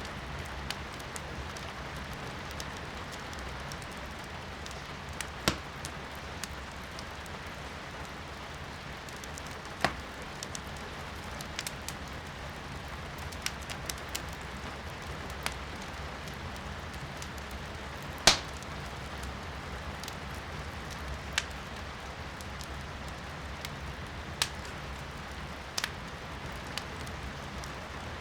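Firewood burning in a fireplace, crackling with irregular sharp pops every second or so, one much louder pop about two-thirds of the way through, over a steady hiss of rain.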